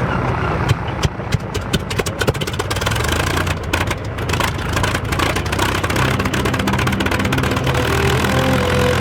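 Piston aircraft engine starting up, firing irregularly with a rapid run of pops and crackles, then settling into a steadier run as music with held chords comes in about six seconds in.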